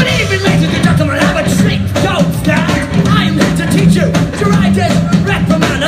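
Live punk rock band playing loudly with drums, bass, guitar and singing, recorded from the audience.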